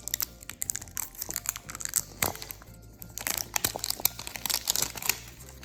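Blind-box packaging being crinkled and torn open by hand: a dense run of crackles and snaps, with soft background music underneath.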